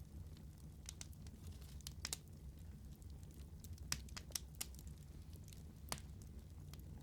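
Wood fire crackling: a low steady rumble under scattered sharp pops and snaps, the sharpest about four and six seconds in.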